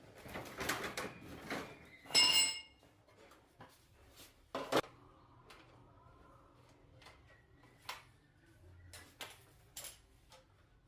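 Tools and metal parts being handled: a scraping rustle for the first couple of seconds, then one loud ringing metallic clang, followed by scattered clicks and knocks.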